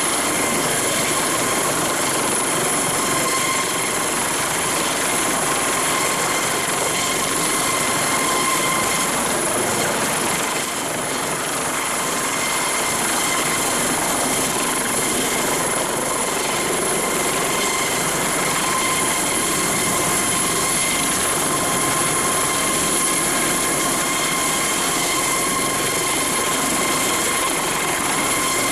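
Airbus Helicopters AS365N Dauphin helicopter running steadily, a dense rotor and turbine noise with a steady high whine on top. It holds at one level, with a brief slight dip about ten seconds in.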